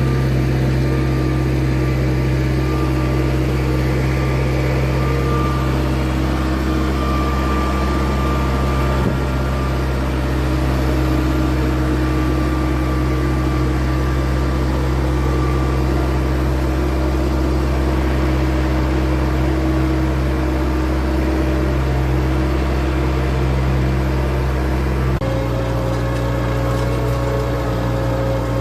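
A4800 tractor's diesel engine running steadily under load while pulling a disk plough. A single faint knock comes about nine seconds in, and near the end the engine note shifts abruptly to a different pitch.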